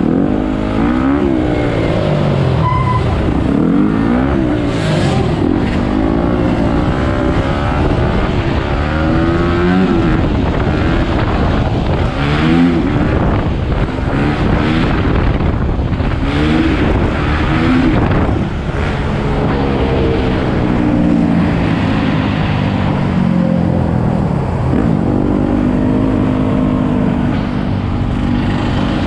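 Several dirt bike and ATV engines revving, their pitch climbing and falling over and over and overlapping one another. Toward the end the engines hold a steadier pitch.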